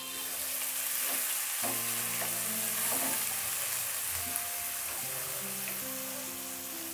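Parboiled diced vegetables and onion sizzling in hot oil in a frying pan, stirred and scraped with a wooden spatula. The sizzle swells about a second in and then holds steady, with soft background music underneath.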